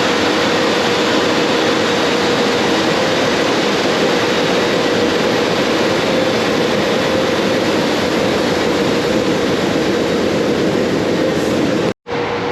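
Car wash air-moving machinery, a powerful motor blowing or sucking air: a loud, steady rush of air with a steady whine. It breaks off for an instant near the end, then carries on unchanged.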